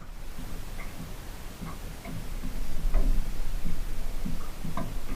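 Irregular light ticks and small knocks, with no steady rhythm, over a low steady rumble that grows louder about halfway through.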